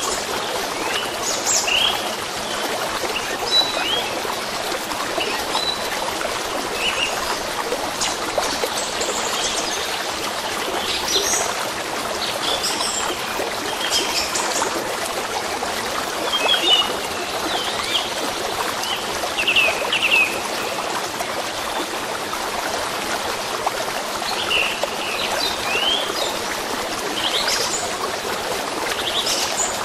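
A stream running steadily, with small birds chirping and whistling on and off over it.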